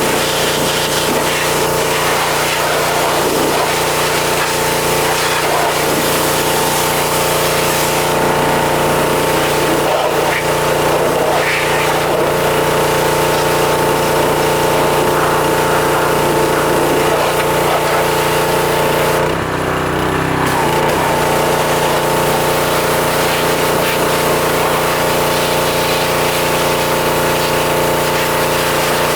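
Pressure washer running with a steady hum and the hiss of its high-pressure spray. About two-thirds of the way in the spray cuts off for a second or so while the machine's hum wavers, then the spray resumes.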